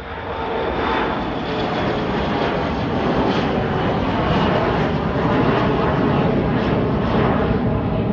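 Airliner engines at takeoff power as the aircraft departs. The noise swells over the first second or so, then holds loud and steady.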